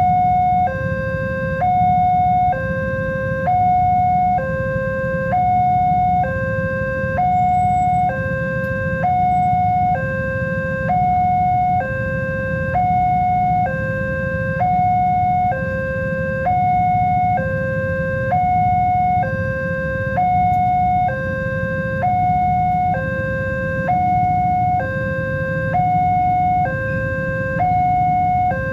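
Indonesian level crossing warning alarm sounding: an electronic two-tone signal alternating between a higher and a lower note, each held just under a second, warning that a train is approaching. A low rumble runs underneath.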